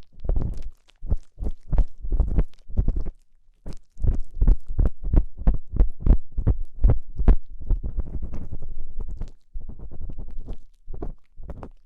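Ear-cleaning tool scraping and rubbing inside a binaural microphone's ear in quick repeated strokes, about four a second, close and heavy with low rumble. Brief pauses break it twice, and the strokes run together into longer scrapes near the end.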